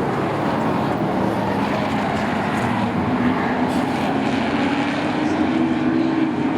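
Engines of a field of race trucks running on a short oval track, a steady drone of several engines at once whose pitch shifts up and down as they go around.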